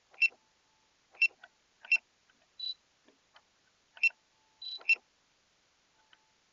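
Five sharp clicks spread unevenly over a few seconds, with two short high-pitched beeps between them.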